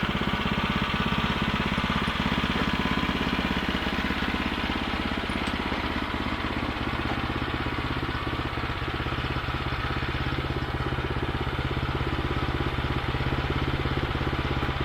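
Gasoline engine of a Woodland Mills bandsaw mill running steadily at an even pitch.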